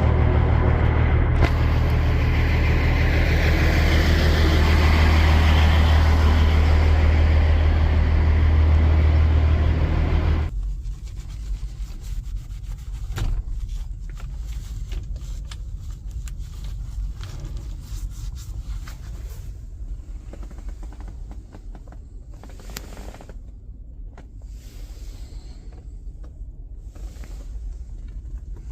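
Semi truck cab noise while driving: a steady low engine drone with road noise. About ten seconds in it cuts off suddenly to a much quieter background with scattered clicks.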